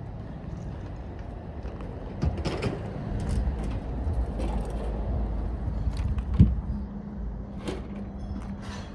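A motor running with a low rumble and hum, with scattered metal knocks and clanks of parts being handled; one sharp knock about six and a half seconds in is the loudest.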